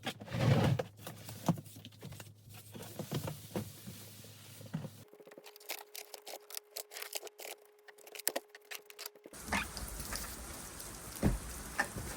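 Scattered knocks, taps and rustles of household items being handled and moved, over a low room hum. For the last few seconds a steady rush of wind noise with a few thumps.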